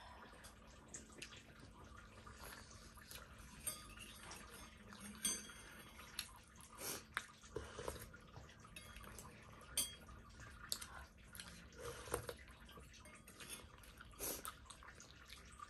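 Faint eating sounds: chewing and mouth noises with scattered small clicks and clinks of utensils and dishes.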